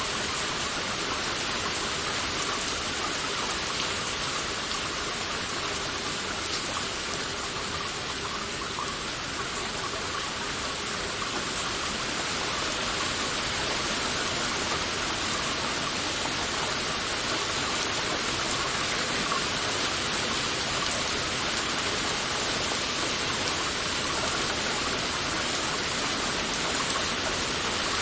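Heavy rain falling steadily: a dense, even hiss of many drops with no single drop or event standing out.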